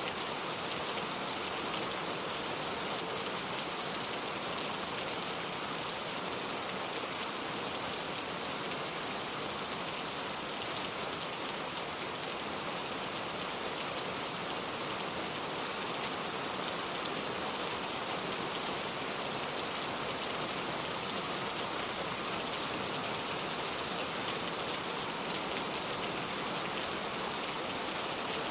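Steady heavy rain pouring down, with scattered drops ticking on surfaces and one sharper drop tick about four and a half seconds in.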